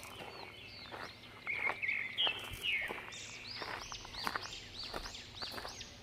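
Forest birds calling, with a quick run of repeated rising-and-falling chirps in the second half, over footsteps on a gravel path.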